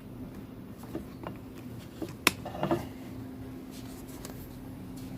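Room tone with a steady low hum and a few light clicks and knocks, the sharpest a little past the middle.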